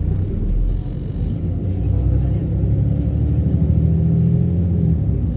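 City bus running under way, heard from inside: a low engine rumble with a steady engine note that grows slightly louder about two seconds in.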